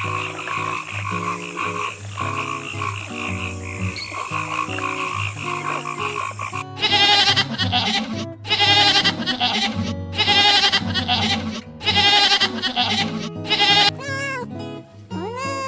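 Background music with an animal calling over it: first a steady chorus-like sound, then about five separate calls, each about a second long with a rapid pulsing, croaking texture.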